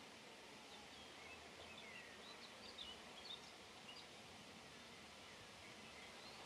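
Near-silent outdoor ambience with faint, quick high chirps and twitters of small birds, mostly between about one and four and a half seconds in.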